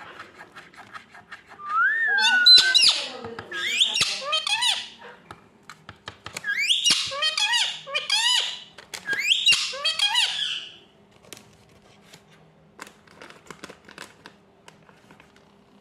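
Indian ringneck parakeet calling: a short whistle that rises and falls about two seconds in, then four bursts of squeaky, bending calls over the next eight seconds. Near the end there are only faint scattered clicks.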